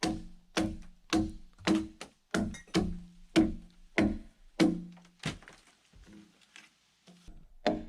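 Repeated strikes of a tool on timber, about two a second, each with a short ringing tone, stopping about five seconds in. A few lighter knocks follow near the end.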